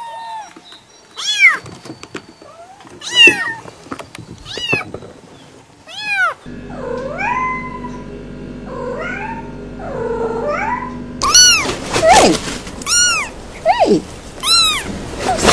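Domestic cat meowing over and over: a dozen or more short, arching meows, several seconds apart at first and coming quickly near the end. In the middle section a steady low hum runs behind the meows.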